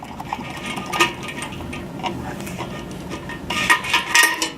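Hands fitting antenna bracket parts, with small metal and plastic pieces clicking and clinking against each other, and a quick run of louder clicks near the end.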